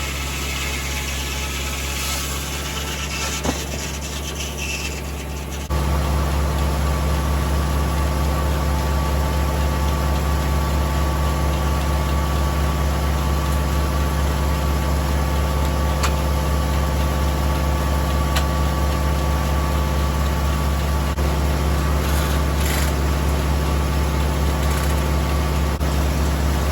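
Tractor engine running steadily, the engine that drives the circular sawmill. About six seconds in it steps up to a louder, higher-throttle run and holds there.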